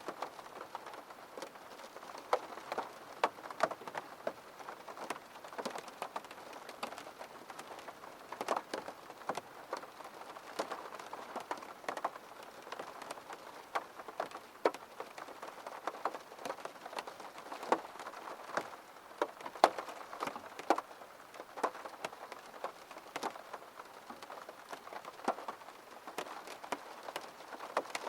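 Rain falling on a window pane: a steady patter with many irregular sharp taps of single drops hitting the glass.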